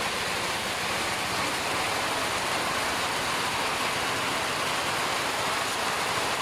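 Steady rain falling, a dense, even hiss that holds unchanged throughout.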